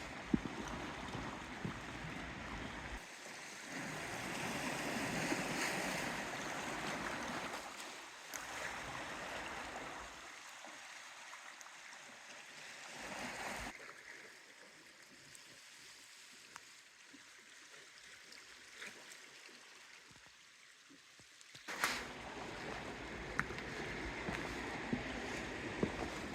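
Outdoor seaside ambience: wind buffeting the microphone in gusts over a wash of water. It drops much quieter for several seconds in the middle, then picks up abruptly near the end.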